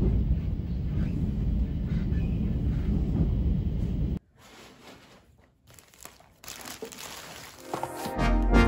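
Steady low rumble of a moving train heard from inside the carriage, cutting off abruptly about four seconds in. Then faint crinkling of a plastic shopping bag being handled, with music coming in near the end.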